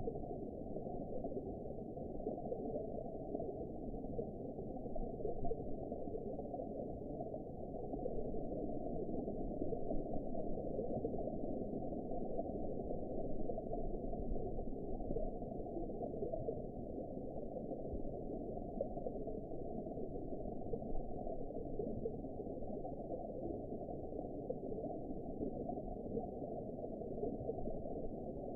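Underwater ambience: a steady, muffled rushing and gurgling of water, all of it low in pitch with nothing above it.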